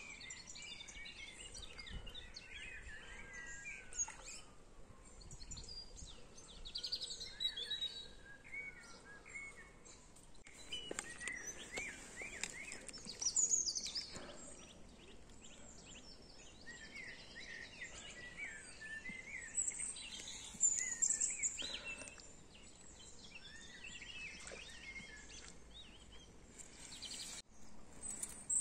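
Several songbirds singing at once, a steady mix of short chirps and warbled phrases. A faint tone slowly rises and falls in pitch a few times during the first ten seconds.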